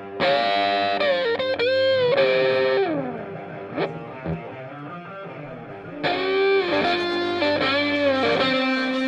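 Electric guitar with distortion and effects playing melodic phrases with bent, gliding notes: one phrase at the start and another about six seconds in, with a quieter held tone between them.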